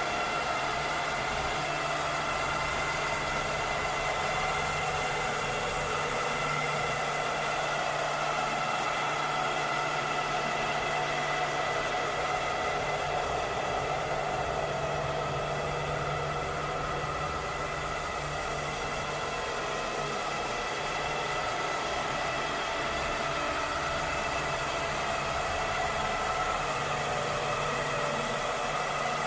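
Cleaning robot's motor running with a steady whir over a hiss, holding several steady tones at an even level.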